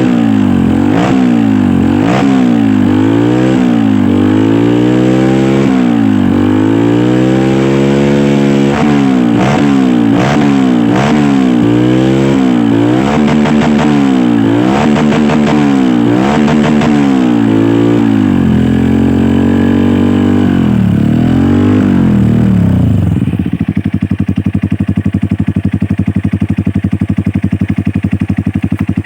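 Honda CRF dirt bike's single-cylinder engine running through a loud Norifumi RV1 aftermarket exhaust, revved in quick throttle blips about once a second, then held in a longer rev before dropping back to a steady idle about 23 seconds in.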